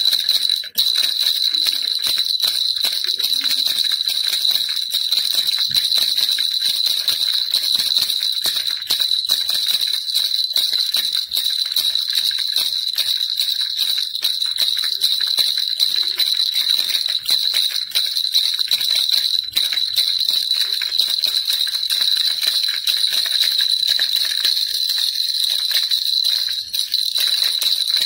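Baby rattle shaken without pause: a dense, even jingling of many small clicks over a steady high ring.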